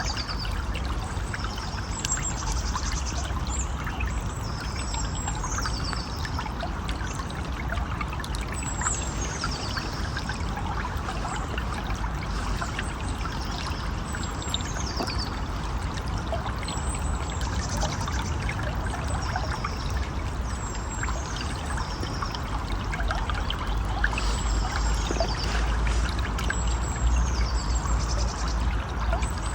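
Steady rush of a river or stream running, with a bird singing a short, high phrase of falling notes, repeated every couple of seconds.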